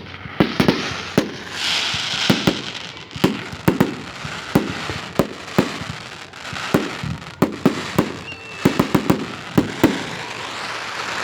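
Fireworks going off: a long run of sharp, irregular bangs and pops, several bunched close together, with crackling hiss between them.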